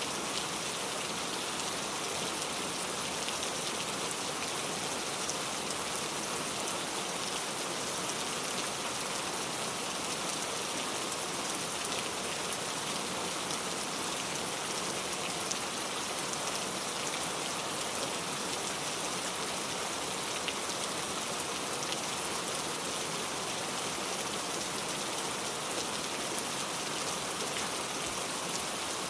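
Steady rain, an even hiss of falling water with the fine ticks of single drops, unchanging throughout.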